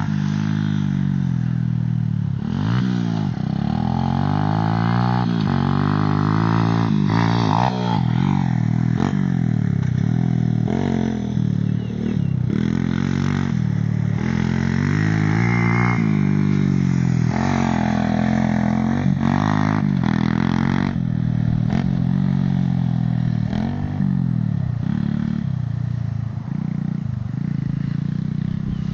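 Small off-road motorcycle engine, ridden hard, its pitch rising and falling over and over as the throttle is opened and closed.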